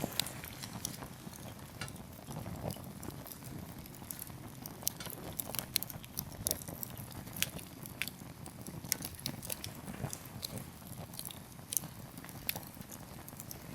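Wood campfire crackling: firewood pops in irregular sharp snaps, several a second, over a low steady rumble.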